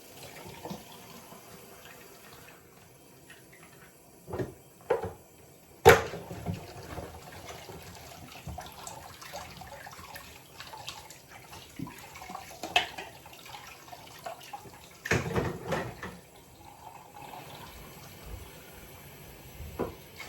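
Water running from a tap, with several sharp knocks and clunks between. The loudest knock comes about six seconds in.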